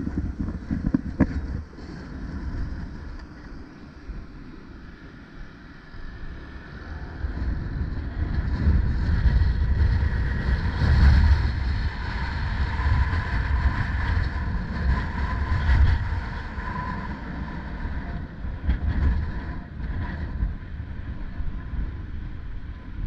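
Wind buffeting the microphone in gusts while riding, over the running of a vehicle's engine. It is loudest through the middle, with a faint steady whine that comes and goes.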